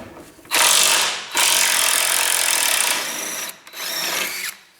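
Power tool run in three bursts on the chassis, the middle one the longest.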